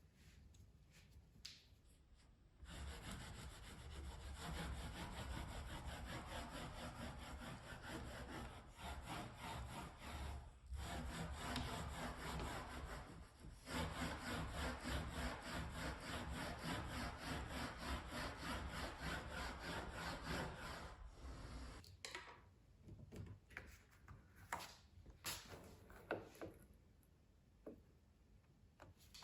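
Brother ScanNCut SDX1500 cutting machine running, its motors moving the mat and cutting head in a steady mechanical run, with two brief pauses. It stops about two-thirds of the way in, followed by a few light clicks.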